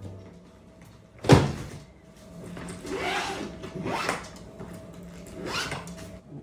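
A single sharp knock about a second in, followed by three swishing, rustling sounds a second or so apart.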